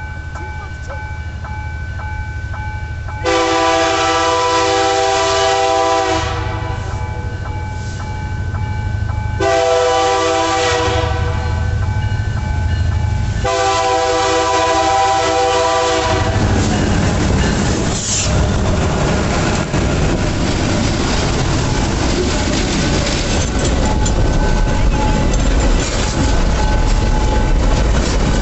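Diesel freight locomotive approaching a level crossing, sounding its multi-tone air horn in three long blasts as a crossing warning. After the horn, the train passes with a growing rumble and clatter of wheels on rail.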